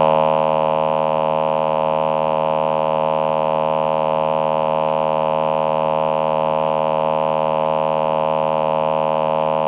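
Roland VP-330 Vocoder Plus synthesizer playing its male human-voice choir patch: one steady held note or chord that does not change.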